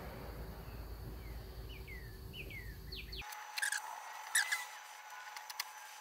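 Small birds chirping: a run of short, falling chirps, then a few sharper calls, over a low steady rumble that cuts off abruptly about three seconds in.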